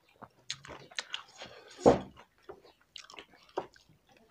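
People chewing mouthfuls of chicken gizzard curry and rice eaten by hand: a string of short mouth clicks, with a louder mouth sound about two seconds in.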